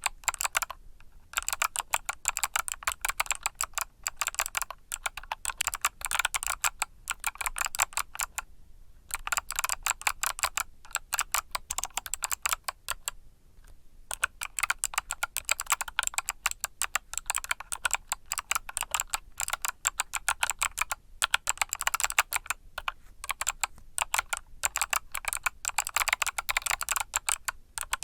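Continuous typing on a mechanical keyboard with Kailh Box Summer switches: quick runs of sharp keystroke clicks, with brief pauses about a second in, around nine seconds in and near the middle.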